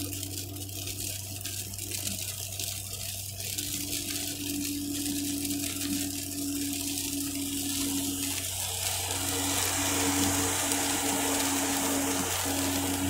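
Car driving on a wet road in the rain, heard from inside the cabin: steady hiss of tyres and rain under a low hum. The hiss grows louder and brighter about eight seconds in.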